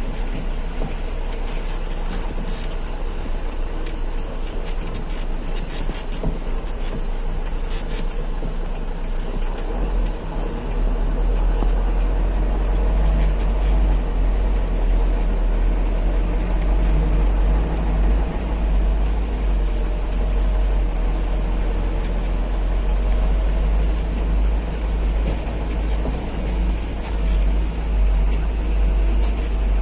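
Heavy truck on the move: a steady, deep engine rumble with road noise, which grows louder about ten seconds in and stays there.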